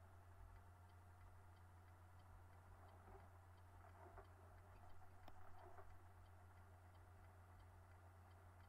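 Near silence: a faint steady low hum with quiet, evenly spaced ticking, and a brief faint murmur about four to six seconds in.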